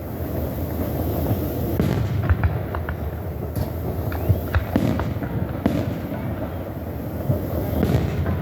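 Fireworks show: a dense, continuous crackle and rumble of aerial shells, with sharp bangs standing out every second or two.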